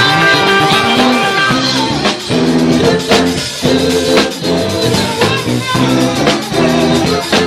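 Live band playing music with a steady beat.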